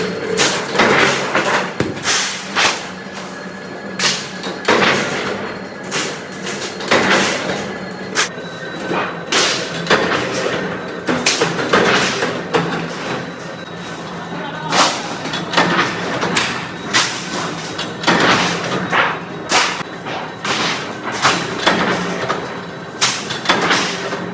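Factory workshop noise: irregular knocks and clanks of parts being handled and struck, one or two a second, over a steady low machine hum.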